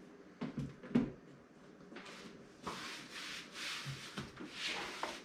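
Hands handling computer parts during a PC build: a couple of light knocks in the first second, then a few seconds of soft rubbing and rustling.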